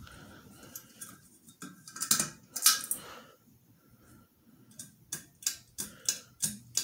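Ceiling fan pull chain being tugged: about ten sharp metallic clicks and chain rattles, coming quicker in the second half, as the pull-chain switch is worked.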